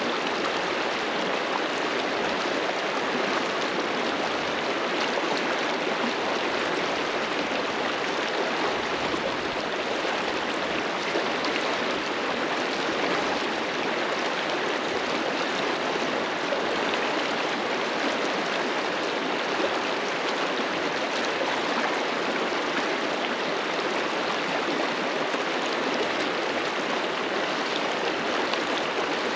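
A fast mountain river rushing steadily over rocks, a continuous even roar of flowing water.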